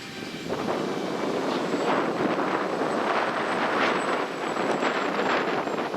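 Strong gusty wind buffeting the microphone, rising sharply about half a second in and then surging and easing unevenly.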